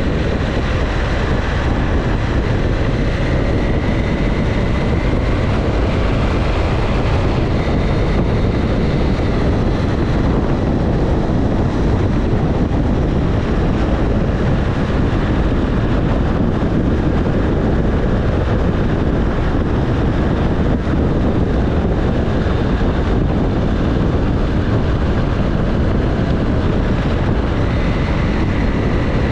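Motorcycle on the move: its engine running under a steady rush of wind on the microphone, with a faint high whine drifting slightly in pitch.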